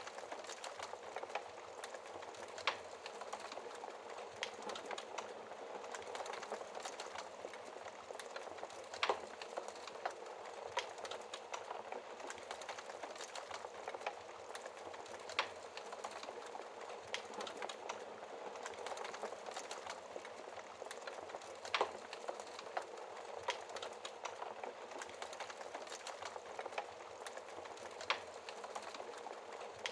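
Wood fire burning in a fireplace, crackling steadily with a soft hiss of flames and scattered sharper pops, the loudest about 9, 22 and 28 seconds in.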